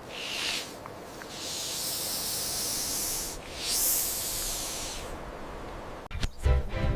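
A snake hissing three times in a few seconds: a short hiss, then a long one, then a slightly shorter one.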